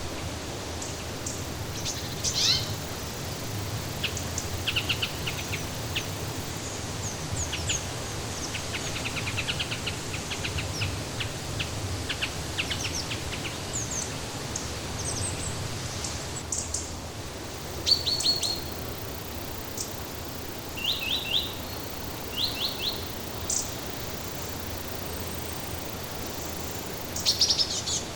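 Wild songbirds chirping and trilling in short, scattered calls over a steady rushing background hiss.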